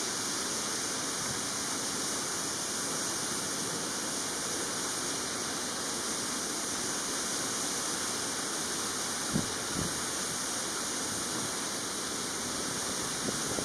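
Steady rushing noise, even and hiss-like, with two brief low thumps about nine and a half seconds in.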